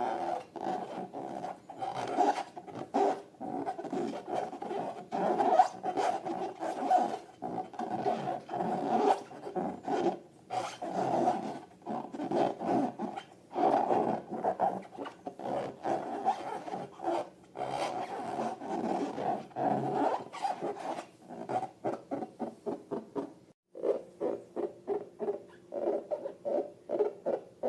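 Rubber balloons squeaking and rubbing under the hands in quick repeated strokes. Near the end the strokes turn into short, even squeaks, about three a second.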